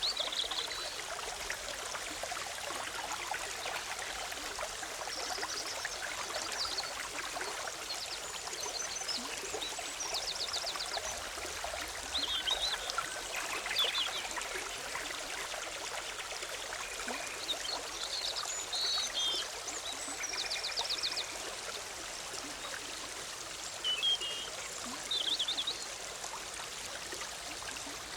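Forest stream bubbling and splashing steadily over rocks. Songbirds call over it now and then, with short high chirps and a few quick trills.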